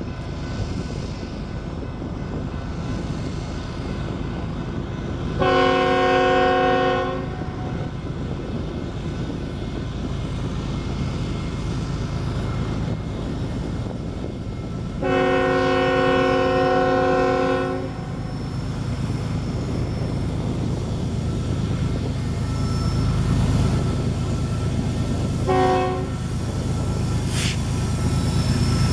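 Freight diesel locomotives working upgrade with a steady low rumble that grows louder near the end as the train approaches, while a multi-chime locomotive air horn sounds two long blasts and then one short one.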